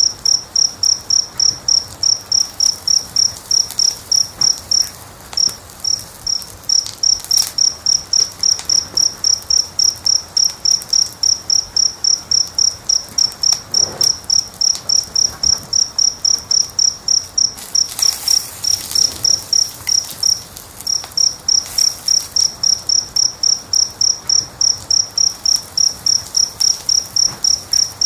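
A cricket chirping in a steady, even rhythm of about three to four high-pitched chirps a second, pausing briefly twice. Faint pops and crackles of a wood fire sit underneath.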